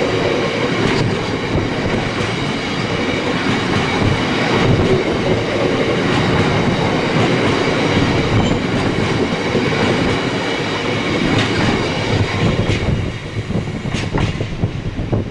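Coal train rolling past over a level crossing: a steady rumble and clatter of wagon wheels on the rails with a faint high ringing. The noise falls away about thirteen seconds in as the train clears.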